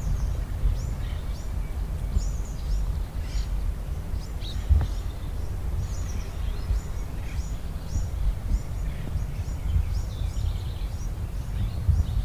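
Small birds chirping repeatedly in short, high, quick calls over a steady low rumble outdoors, with a single sharp crack about halfway through.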